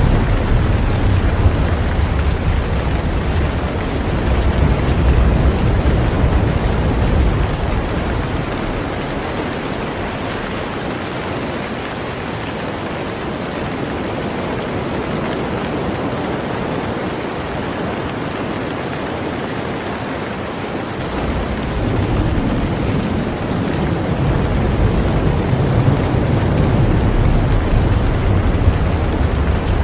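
Heavy rain falling on a boat, a steady dense hiss of drops. A deep low rumble underneath fades away about a third of the way in and comes back about two thirds through.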